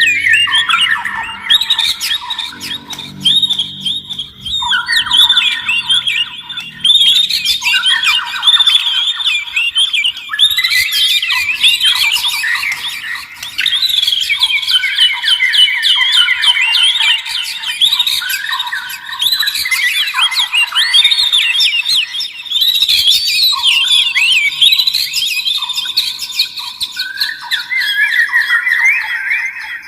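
Oriental magpie-robin and white-rumped shama singing: a fast, varied stream of whistled phrases, trills and chattering notes with barely a pause.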